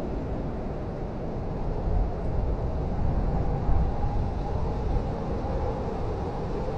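Blizzard wind rumbling steadily, with a faint wavering howl, swelling a little louder in the middle as a gust comes through.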